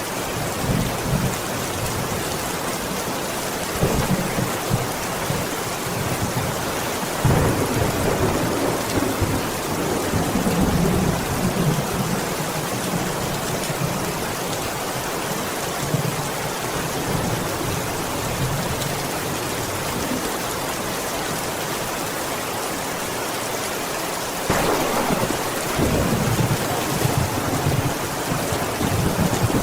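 Steady rain, with low rolls of thunder: a short one about four seconds in, a longer one from about seven to twelve seconds, and another starting near the end.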